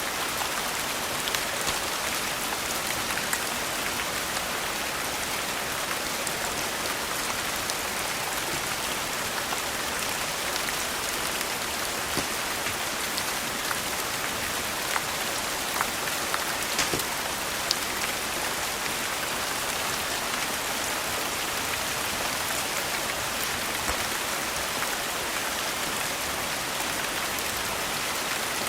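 Steady rain, a dense even hiss, with scattered sharp ticks and pops through it.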